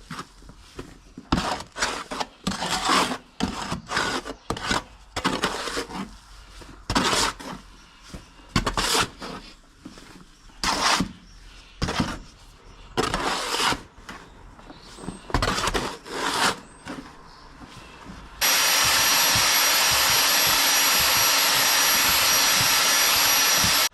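Mortar being mixed in a bucket with a drill-driven plastering whisk. The drill runs in short, irregular bursts as the whisk works the bottom and corners. For the last five seconds or so it runs steadily and louder.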